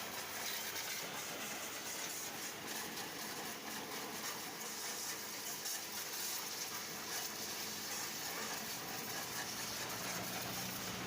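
High-pressure washer jet spraying water onto a tractor, a steady hiss; a low hum comes in near the end.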